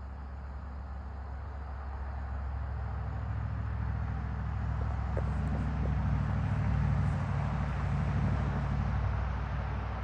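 Cargolux Boeing 747-8's four GEnx turbofan jet engines rumbling as the plane passes, the sound swelling to a peak about two-thirds of the way through and then easing slightly.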